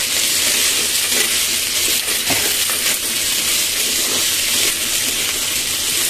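Potato and cauliflower pieces sizzling steadily in hot oil in a frying pan while a metal spatula stirs them, scraping and clinking against the pan, with one sharper knock about two seconds in.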